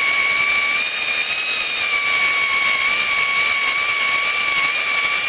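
Power drill running steadily under load with a high motor whine, driving the Time-Sert drill bit down into a stripped head bolt hole in a Honda 3.5 L aluminium engine block.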